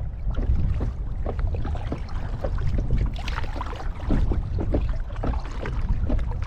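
Kayak paddle strokes with water splashing and lapping against the hull in quick, irregular dips, over a steady low rumble.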